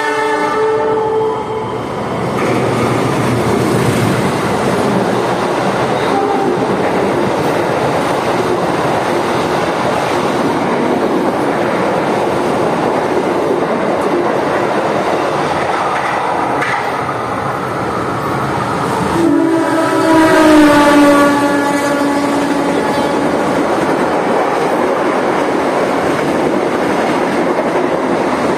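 Passenger train passing through at speed without stopping: a steady loud rumble and clatter of wheels and carriages. The train horn is sounding as it begins and stops about a second and a half in. It sounds again for about three seconds around two-thirds through, its pitch dropping partway.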